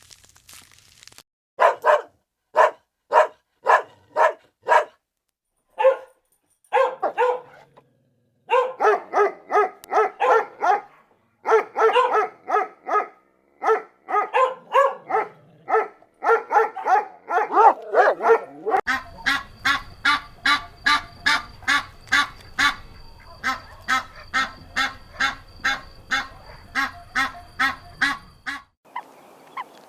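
An animal calling over and over in short pitched calls, about two a second, with brief gaps early on. About two-thirds of the way through the recording changes: the calls go on over a steady low hum, then stop shortly before the end.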